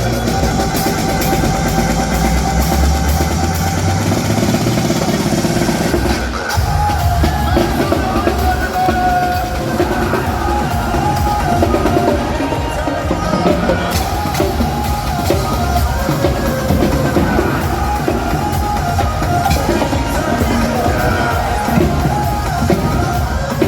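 Loud amplified music with a heavy drum and percussion beat and strong bass, from a street-show percussion crew drumming to a backing track; the groove changes about six seconds in.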